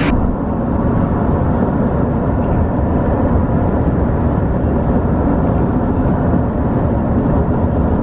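Steady low rumble of a moving car, road and engine noise with no break.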